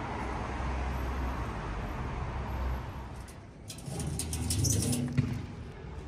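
Outdoor city ambience with a low, steady hum, and a bird calling from about four seconds in.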